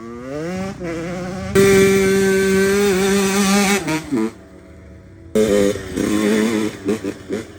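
Dirt bike engine revving. The pitch climbs in the first second and is held high and loud for about two seconds, then drops off; after a lull comes a run of short throttle blips.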